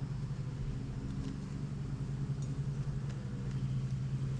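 Steady low hum of a crowd of honeybees from an opened hive.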